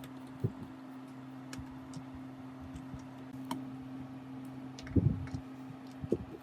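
A steady low hum with scattered light clicks and ticks, and short knocks, most of them in a cluster about five seconds in.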